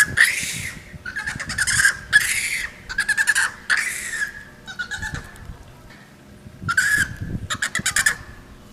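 Monkey calling: a string of short, shrill calls about half a second apart, pausing briefly in the middle, then breaking into rapid stuttering chatter near the end.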